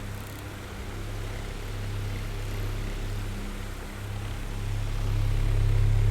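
Oscillating electric fan running: a steady airy whir over a low motor hum, fading in the first part and swelling louder again about two-thirds through as the fan head turns away and back.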